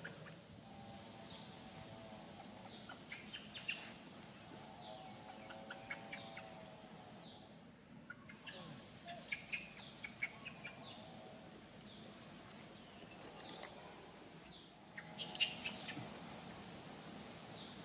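Birds chirping in short, repeated, falling calls, with several bursts of sharp clicks and a faint steady high-pitched tone underneath.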